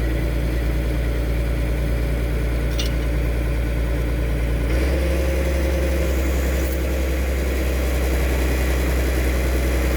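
Diesel engine of a Kobelco SK200-3 excavator running steadily at idle, its note shifting slightly about halfway through.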